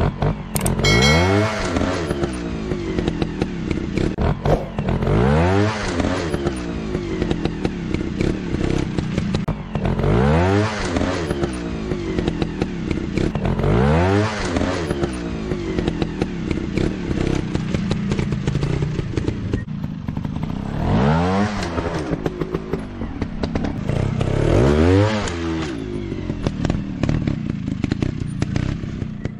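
Motorcycle engines revving over a steady running drone. The pitch swoops up and falls back six times, roughly every four seconds.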